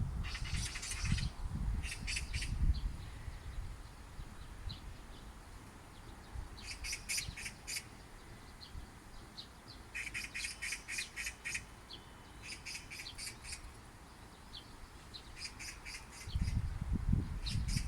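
Oriental magpie giving its chattering call: about seven short bursts of rapid, rattling notes spread across the stretch. A low rumble rises near the end.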